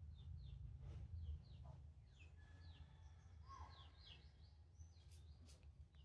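Near silence, with faint, scattered bird chirps over a low, steady hum.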